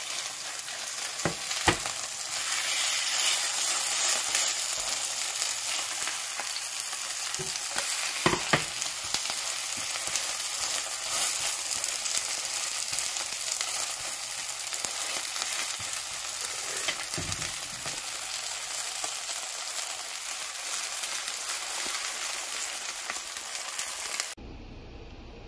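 Bindaetteok (mung bean pancakes) sizzling steadily in hot oil in a nonstick frying pan, with a spatula knocking against the pan a few times as the pancakes are turned and pressed. The sizzle cuts off suddenly about a second before the end.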